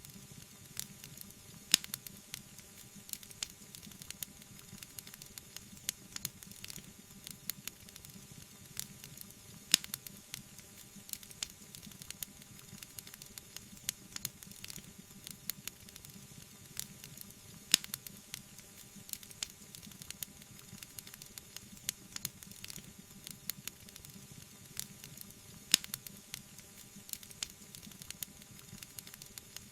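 Wood fire crackling: a dense run of small pops and ticks over a low steady hiss, with four louder snaps spaced about eight seconds apart.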